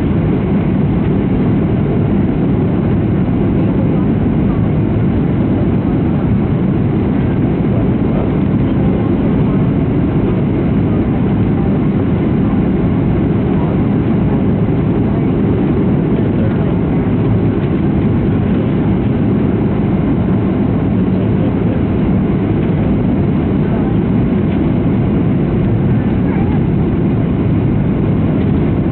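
Cabin noise inside a Boeing 737-700 in flight: the steady roar of the engines and the airflow over the fuselage, even and unchanging throughout.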